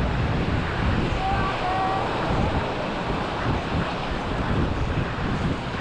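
Sea waves washing onto the shore, with wind buffeting the microphone in gusts. A few faint short tones come through a little over a second in.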